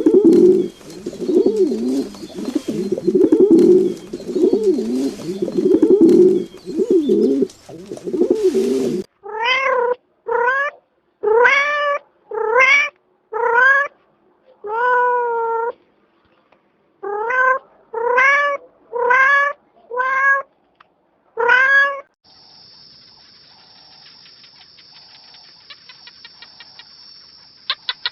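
Pigeon cooing, low and wavering, for the first nine seconds, then a cat meowing eleven times, each meow rising in pitch, with short gaps between. Near the end there is a faint steady hiss with a quick run of ticks.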